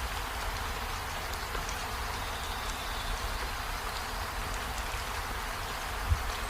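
Steady rain falling on tree leaves and a window, an even patter with scattered drips ticking, and a single brief low thump near the end.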